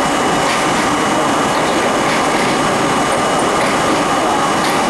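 Budd-built R32 subway train running at speed: a steady, loud rumble of wheels on rail and car noise, with a faint steady whine over it.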